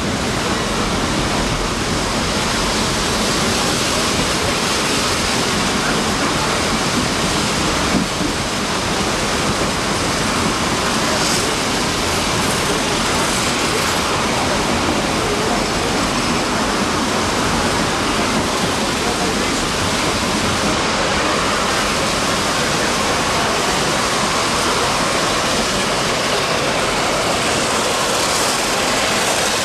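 Steady rush of Clear Creek's mountain stream water, mixed with the running noise of the moving narrow-gauge train.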